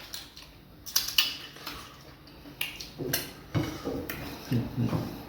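Close-up eating sounds while eating fufu and soup by hand: a scatter of sharp, wet clicks and smacks, with a couple of louder ones about a second in and another about three seconds in.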